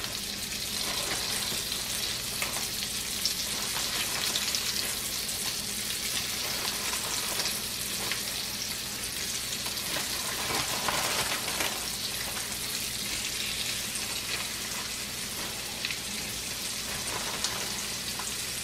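Breaded chicken of the woods mushroom pieces frying in hot oil in a skillet: a steady sizzling hiss with scattered small crackles.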